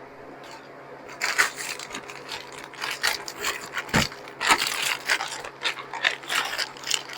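Handling noise of frozen food pieces being taken from a plastic bag and laid on a freeze-dryer tray: scattered clicks, scrapes and rustling, with one louder knock about four seconds in.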